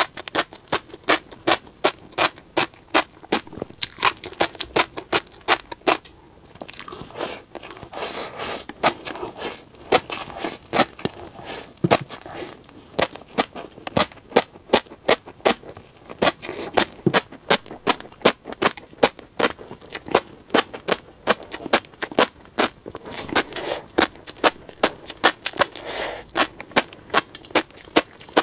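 Close-miked chewing of tobiko (flying fish roe), the tiny eggs popping and crackling between the teeth in sharp clicks, several a second. There is a short lull a little after six seconds in.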